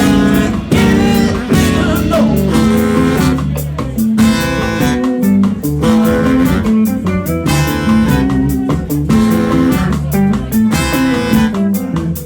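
Band playing a guitar-led passage, with drum hits keeping a steady beat.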